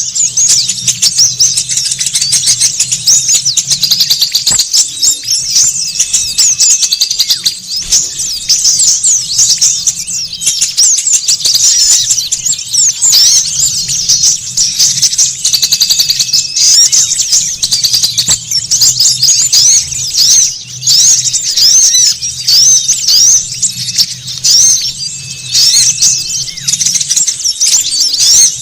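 Dense, continuous chatter of many small songbirds: rapid, high, excited chirps overlapping without pause, a bird-lure call of agitated birds meant to draw small birds in. A faint low hum runs beneath.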